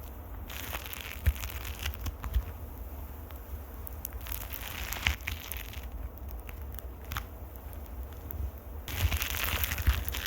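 Microphone being scratched close up: scratchy, crackling noise in three spells, the last and loudest near the end, dotted with sharp little clicks.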